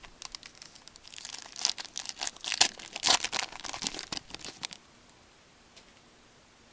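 A trading card pack wrapper being torn open and crinkled by hand, a quick run of crackling rips lasting about four seconds before it stops.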